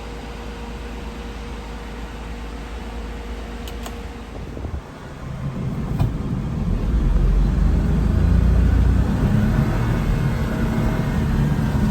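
Daihatsu Hijet kei truck's small engine running: a steady low hum at first, then picking up and running louder from about five seconds in, as when revved or pulling away.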